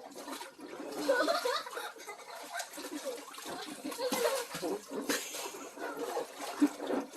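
Water splashing in a swimming pool as children play in it, mixed with children's voices and laughter.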